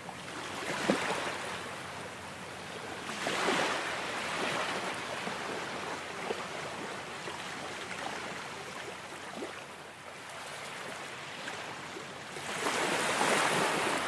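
Ocean waves breaking and washing on a shore: the surf swells up three times, about a second in, a couple of seconds later, and again near the end, with a steady rushing wash between.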